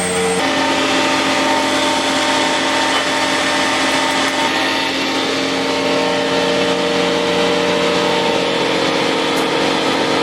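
Vacuum truck's engine and vacuum pump running steadily, a dense mechanical drone made of several steady tones. The note changes about half a second in.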